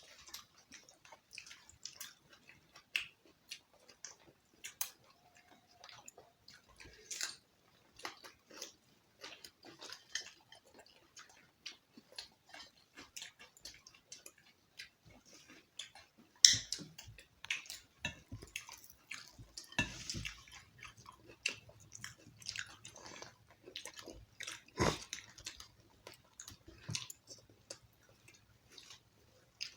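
People chewing and eating roti with chicken curry close to the microphone, with irregular small clicks and wet mouth and hand noises, the loudest around the middle and a little before the end.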